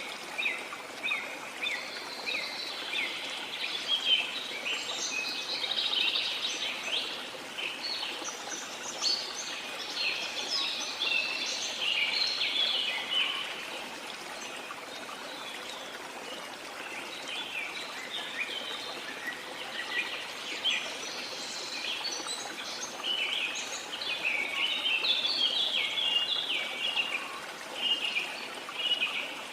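A chorus of birds chirping and twittering in quick, dense runs over a steady rush of flowing water; the birdsong thins out around the middle, then picks up again.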